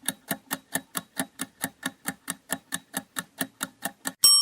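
Countdown-timer sound effect: clock-like ticking at a little over four ticks a second, ending near the end in a single bright bell ding that rings on and fades, marking time up.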